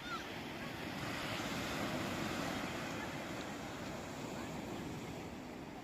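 Sea waves washing in: a rush of surf that swells during the first two seconds and then slowly eases.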